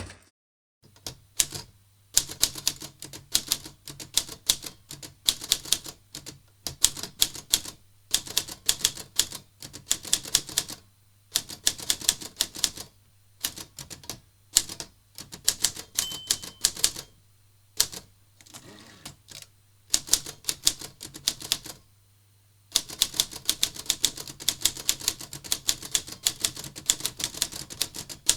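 Olivetti Lettra 22 portable manual typewriter being typed on: rapid key strikes in runs of a second or two, broken by short pauses.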